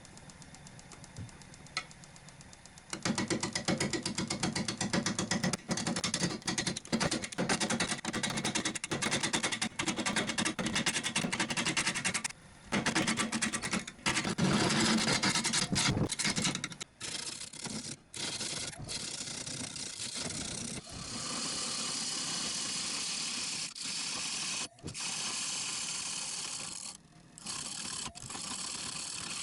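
Wood lathe turning an out-of-balance firewood blank, with a turning tool cutting the uneven wood in a loud, fast, even pulse. It starts about three seconds in, breaks off briefly several times, and turns to a steadier, higher hiss later on.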